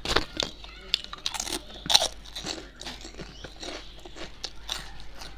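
Close-miked chewing and crunching of crisp food, a dense run of wet crackles and crunches with loud bites just after the start and about two seconds in.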